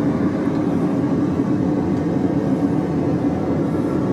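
Gas burner flame running with a steady, even roar.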